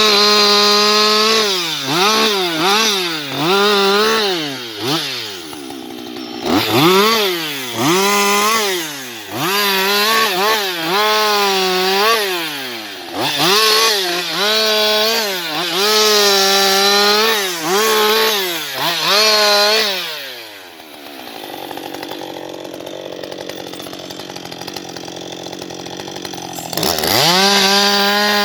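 Husqvarna 560XP two-stroke chainsaw revving in quick throttle blips and short full-throttle stretches, as in a run of short cuts into wood. About twenty seconds in it drops to idle for roughly six seconds, then revs up to full throttle again near the end.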